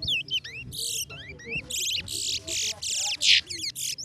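Towa-towa (chestnut-bellied seed finch) singing in competition: quick slurred whistled notes, then from about halfway a string of loud, fast, buzzy trilled phrases.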